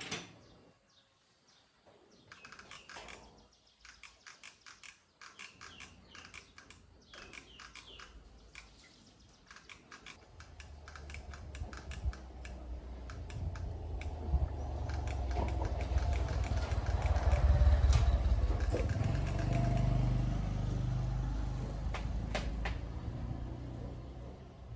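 Light clicks and taps, then an engine running that grows louder over several seconds and then eases off a little.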